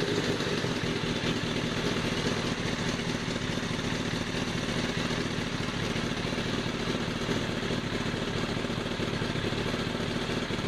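Kawasaki ZX-11's inline-four engine idling steadily, an even rumble with no further revving. The title calls the bike 'roncando muito', making a lot of noise, which flags the running noise as excessive.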